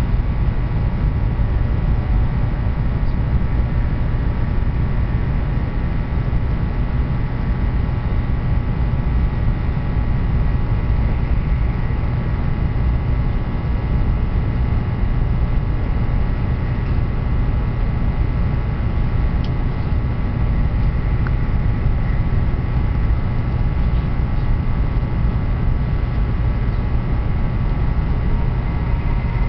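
Train running at a steady speed: a continuous low rumble with a faint steady whine above it.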